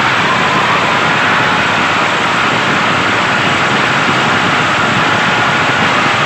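A motor running steadily and loudly, with a faint steady whine over an even noise.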